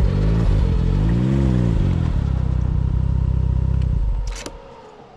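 Snowmobile engine idling; it revs up and back down once about a second in, then runs steadily and is shut off about four seconds in.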